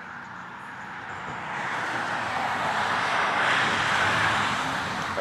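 A vehicle approaching along the road, its tyre and engine noise growing steadily louder over the first few seconds and staying loud near the end.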